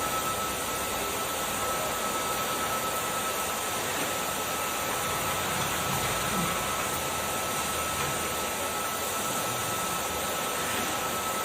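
Kärcher vacuum cleaner running steadily: a constant rush of air with a thin steady whine over it.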